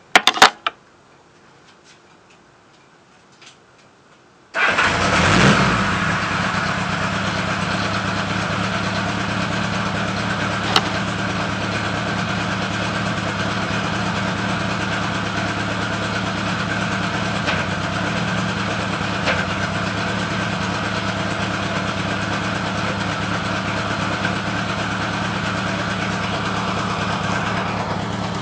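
A few sharp clicks, then about four and a half seconds in a Honda GL1000 Gold Wing's flat-four engine starts and settles into a steady idle. The owner asks whether it is misfiring.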